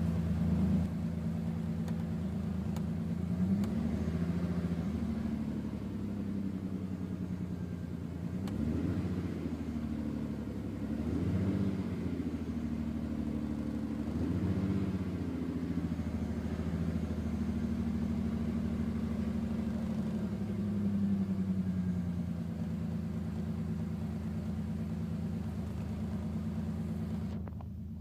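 Nissan Skyline R33 non-turbo straight-six engine running, its revs raised and let fall a few times in the middle. This is an engine that misfires and runs rough until it warms up. The sound drops suddenly near the end.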